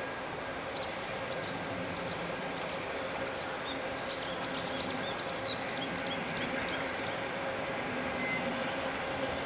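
A small bird singing a run of quick, high, arched chirps that come faster in the middle and stop near the end, over a steady low background hum.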